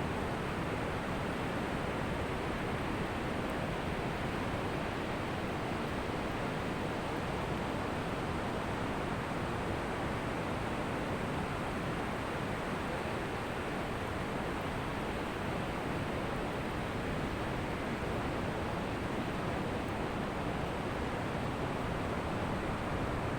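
Ocean surf washing on a shore, heard as a steady, even rush of noise in which no single wave stands out.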